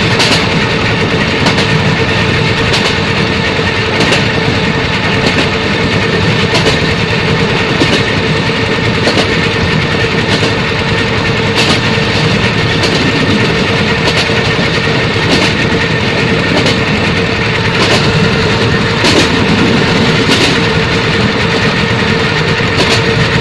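Train running along the track: a steady rumble and hum with a short click about every second and a quarter at an even pace.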